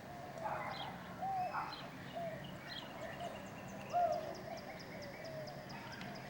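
Birds calling: a run of short, repeated arched calls about every half second to second, with a fast series of high ticks in the second half.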